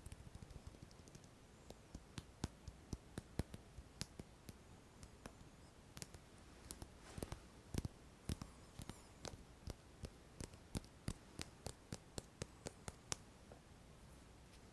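Fingers making a run of sharp, irregular clicking taps, a few a second.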